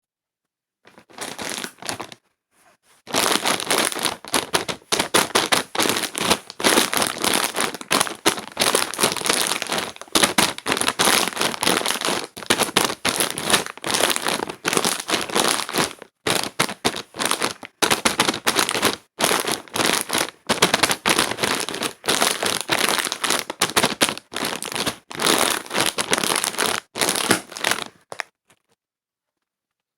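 Close-up crinkling and crackling of something being handled, from about a second in until near the end, with a short break near the start and a few brief pauses.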